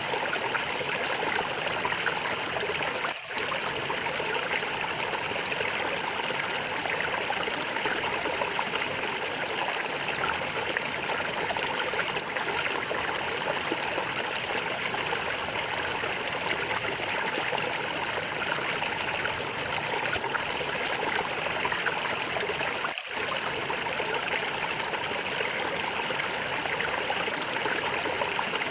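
Small stream gurgling and trickling steadily, with two brief dips in level, about 3 and 23 seconds in.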